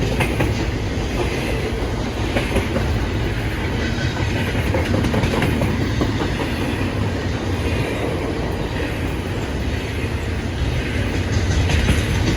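A train running by on the rails: a steady low rumble with the clatter of wheels over the track.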